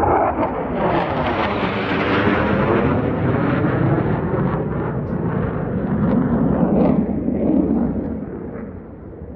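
Military jet flying low past: a loud jet roar with a sweeping, phasing whoosh as it goes by, fading away near the end.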